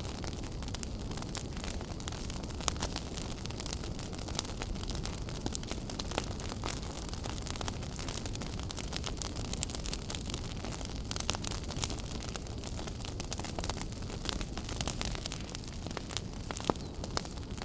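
Wood fire burning in a fireplace: a steady low rumble and hiss of the flames, with constant crackling and scattered sharper pops from the burning logs.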